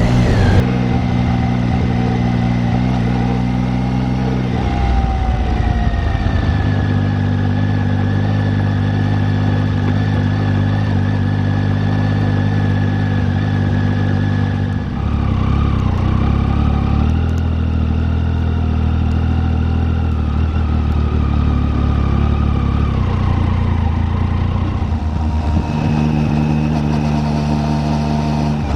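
Triumph Tiger 800 motorcycle's three-cylinder engine running under way. Its note shifts pitch about four seconds in, again near the middle and again near the end.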